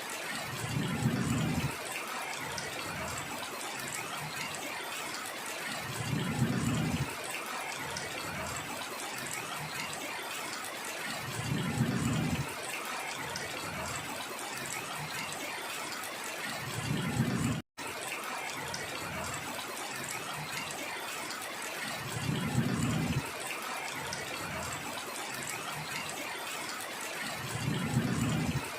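Steady heavy rain. About every five and a half seconds a low rumble swells for a second or so and breaks off abruptly, and about two-thirds of the way through the sound cuts out for an instant.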